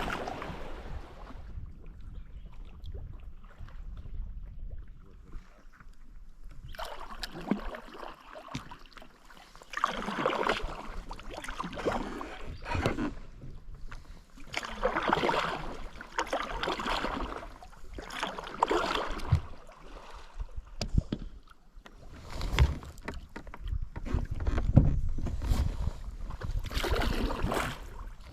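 Kayak paddle strokes in river water, a swishing splash roughly every two and a half seconds, starting about seven seconds in after a quieter drift.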